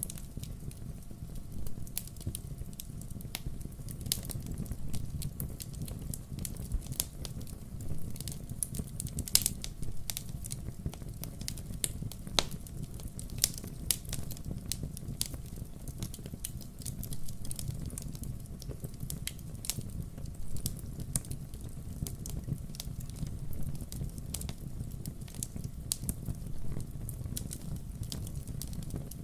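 Wood fire burning: irregular sharp pops and snaps of crackling logs over a steady low rumble.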